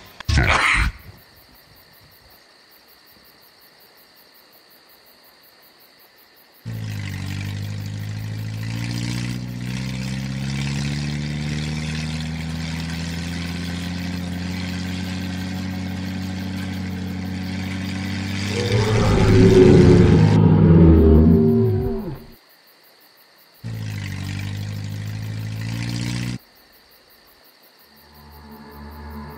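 Jeep engine sound effect running steadily for about thirteen seconds, its note slowly rising, then swelling into a louder, rougher burst before cutting off. A short loud sound opens, a shorter stretch of the same steady sound follows, and music begins near the end.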